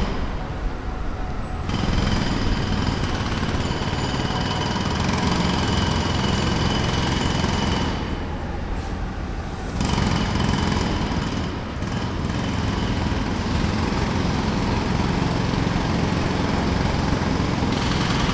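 Jackhammer breaking pavement in long continuous runs, stopping briefly at the start and again about eight seconds in. A low engine rumble carries on through the pauses.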